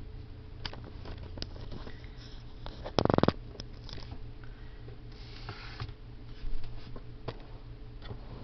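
Handling noises: scattered clicks and rustles, with a short, loud buzzing rattle about three seconds in and a brief rustle a couple of seconds later.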